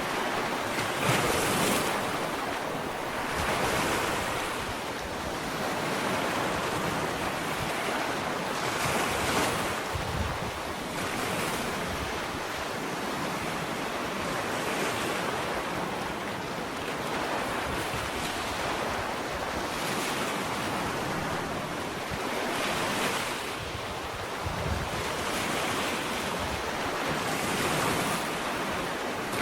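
Small ocean waves breaking and washing up a sandy beach, a continuous surf hiss that swells every few seconds as each wave comes in.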